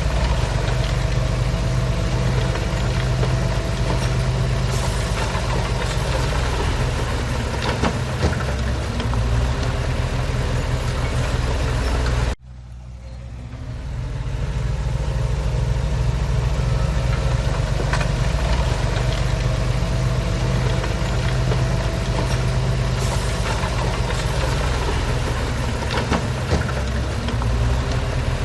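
Heavy earthmoving machine's diesel engine running steadily with a low, even rumble. About twelve seconds in the sound cuts out abruptly, then fades back up over a second or two.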